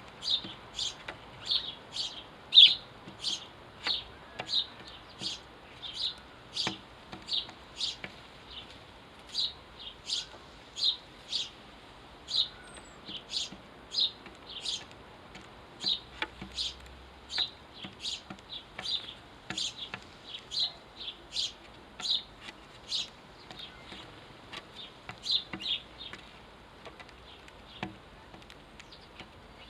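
House sparrow chirping over and over, short sharp chirps about twice a second, with a few brief pauses.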